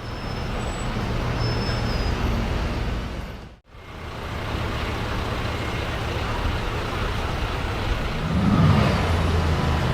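Car driving at speed: steady engine and road noise. The sound cuts out for a moment about a third of the way in, and near the end the engine pitch briefly rises and falls.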